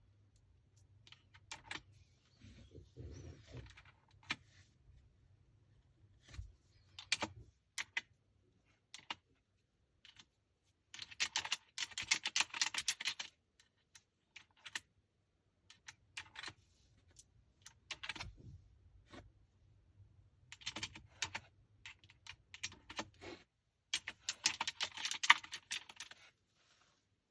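Keys of a Langtu L98 mechanical keyboard being typed on, clicking in irregular bursts. Some stretches are single or scattered keypresses, and two longer runs of fast typing come in the middle and near the end.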